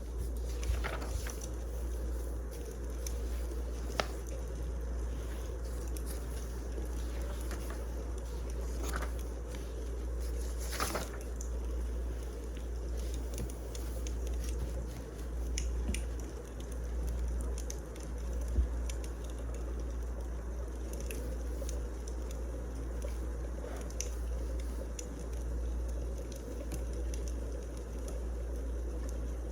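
Wood fire crackling steadily, with a low rumble under it and scattered sharp pops every few seconds.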